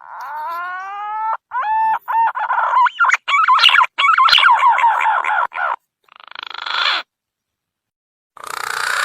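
Green pigeon (punai) song played as a lure call. It opens with a rising whistled note, then runs into a rapid series of wavering, broken whistles, and ends with two shorter hoarse, raspy bursts separated by dead silence.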